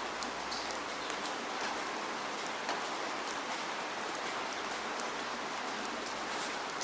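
Steady rainfall: an even hiss of rain with scattered sharper drop ticks landing on a surface.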